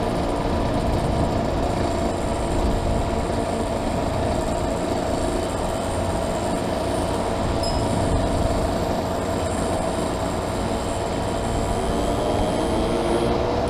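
Classic motorcycle engine running steadily at cruising speed, with wind rushing over a helmet camera; the engine note rises slightly near the end.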